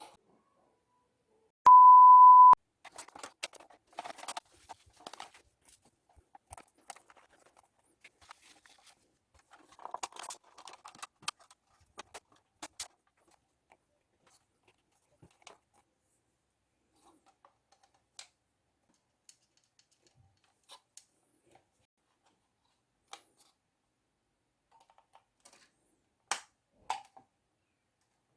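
A single loud, steady electronic beep lasting under a second about two seconds in, followed by scattered light clicks and taps, like plastic parts being handled.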